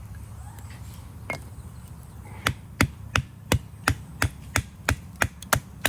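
Knife chopping on a cutting board: a steady run of about eleven sharp strokes, roughly three a second, starting about halfway through.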